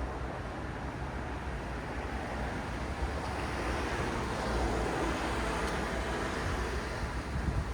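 City road traffic: a steady low rumble and tyre hiss, swelling as a vehicle passes about halfway through and easing off again.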